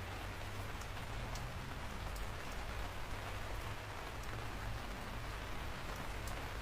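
Steady rain falling on a surface, with scattered sharp drop ticks and a low rumble underneath.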